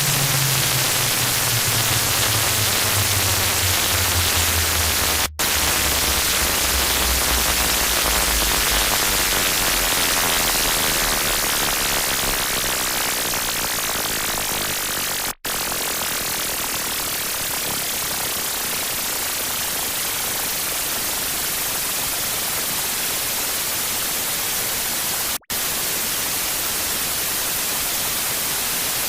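Loud harsh-noise static, a dense hiss heaviest in the high end. Under it, a low drone steps down in pitch over the first ten seconds or so and fades out. The noise cuts out to silence for an instant three times, about ten seconds apart.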